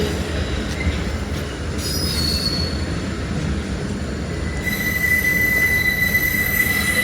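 Train wheels squealing against the rails over a low running rumble. A brief high squeal comes about two seconds in, and a steady high squeal sets in about five seconds in.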